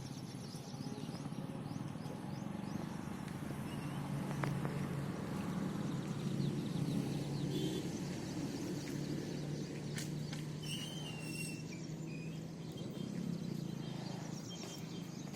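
Open-air ambience: small birds chirping now and then over a steady low hum.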